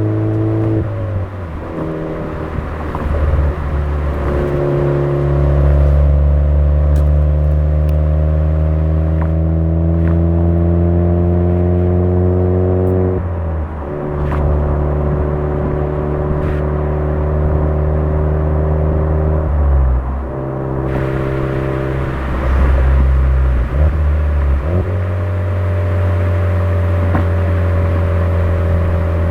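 Suzuki Swift Sport ZC33S's 1.4-litre turbo four-cylinder running through a Fujitsubo aftermarket muffler, droning under load at cruising speed. Its note rises slowly over long stretches, with short drops or dips about four times.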